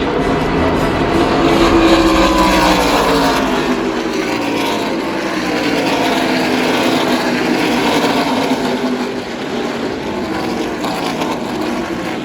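NASCAR Craftsman Truck Series race truck's V8 engine running at speed past the listener, its pitch falling slowly over several seconds as it goes by.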